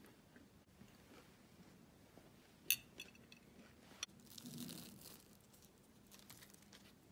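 Small handling sounds close up: a sharp click, a couple of lighter taps, then a short rustle like packaging or paper being handled.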